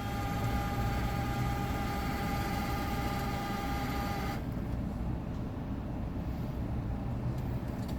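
ATM cash-deposit mechanism whirring steadily as it counts the inserted bills, stopping abruptly about four and a half seconds in, over the steady low rumble of the idling vehicle.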